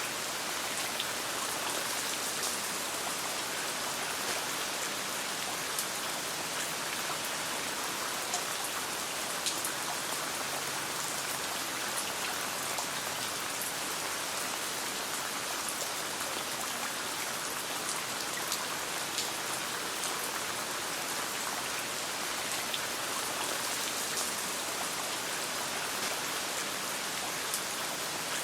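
Steady rain falling, an even hiss dotted with scattered sharp ticks.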